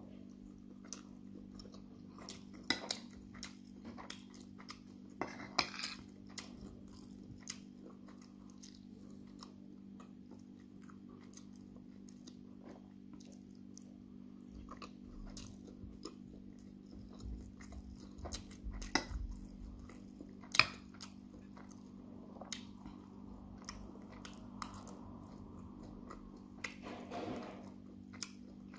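Close-up chewing of mouthfuls of jollof rice, with scattered sharp clinks and scrapes of a metal spoon against the plate, over a steady low hum.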